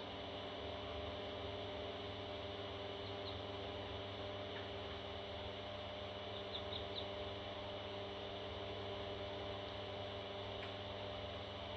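Steady electrical hum, with a few faint, short, high chirps from baby parrots: a pair about three seconds in and three more a little past six seconds.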